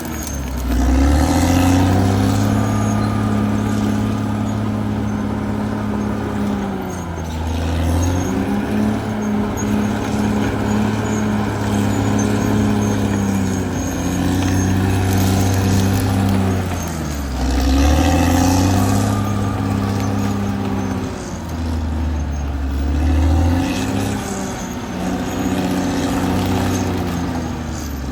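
Caterpillar D6R XL bulldozer's diesel engine running hard. Its pitch sags and recovers about five times, roughly every five to nine seconds.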